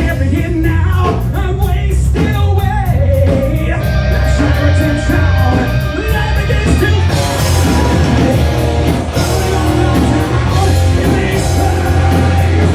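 Live heavy rock band playing loudly: distorted guitars, pounding bass and drums. A singer yells the vocal line over the first few seconds, then the band carries on without vocals.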